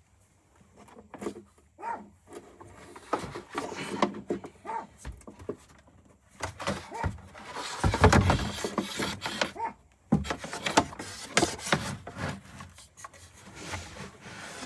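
Irregular knocking, scraping and rubbing of hands-on work with wooden parts, with a louder clattering scrape about eight seconds in.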